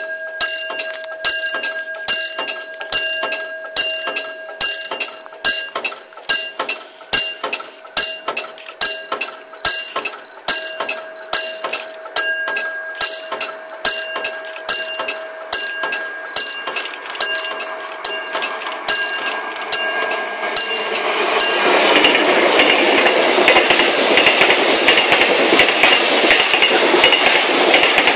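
A warning bell, most likely a level-crossing bell, rings with an even stroke a little faster than once a second. About three-quarters of the way through, a diesel-hauled freight train arrives over it, and a long string of open freight wagons rolls past with a loud, steady rumble of wheels and clatter on the rails.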